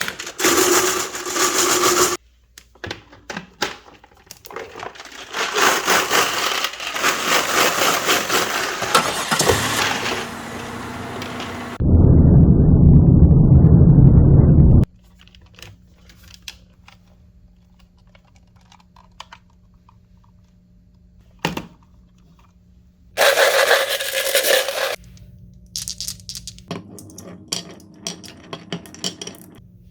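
Marbles rolling and clattering along a wooden HABA marble run, in bursts of rattling and clicking. About twelve seconds in comes a loud low rumble lasting about three seconds, and a second loud burst of clatter comes near the end, between quieter stretches with a faint steady hum.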